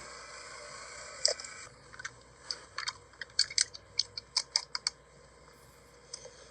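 A steady buzzing hum that stops about a second and a half in, followed by a run of irregular sharp clicks and taps.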